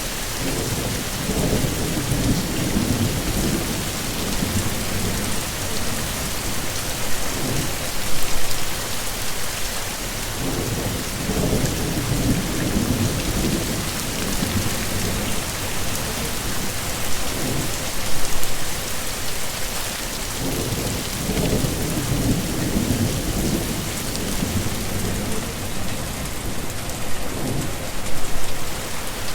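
Heavy rain falling steadily, with low rolls of thunder rumbling in and out about every ten seconds and brief louder peaks now and then.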